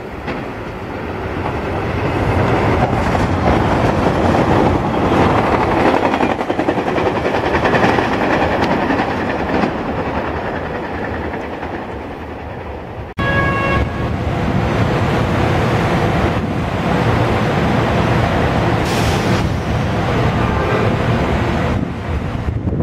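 SEPTA Silverliner electric multiple-unit train running toward and past on the rails, a steady loud rumble and rush of wheels and motors. About halfway through it switches abruptly to an AEM-7 electric locomotive leading a train of coaches, with a brief horn note just after the switch.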